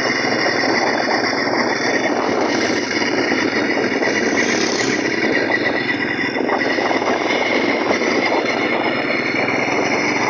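Small engine fitted to a bicycle running steadily, with a fast, even rattle.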